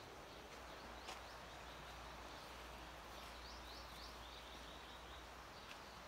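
Faint bird song: scattered high chirps, then a quick run of high chirps from about three seconds in, over a faint steady background hiss and low rumble. Two short clicks, about a second in and near the end.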